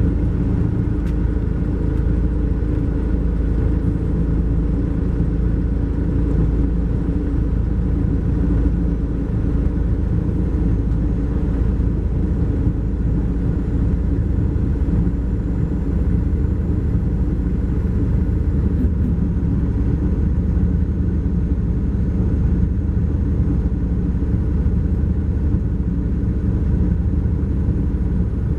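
Cummins ISX12 diesel engine of a 2012 MCI J4500 coach running steadily under way, heard from inside the coach with road noise, at an even pitch and level throughout.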